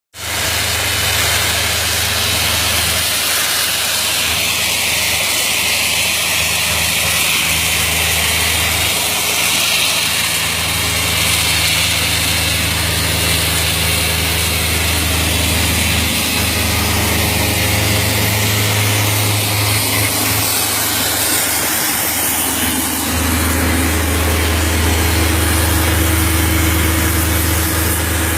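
Dustless wet abrasive blasting: the steady hiss of the blast nozzle over the low, constant drone of the engine-driven air compressor.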